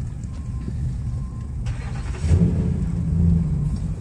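Low, steady vehicle engine rumble heard from inside a parked minivan's cabin, growing louder about two seconds in with a steady low hum.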